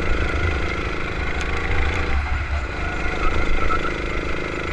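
Kart engine running on track, heard through an onboard camera with a heavy low rumble of wind and vibration. The engine note breaks off briefly about two seconds in, then comes back.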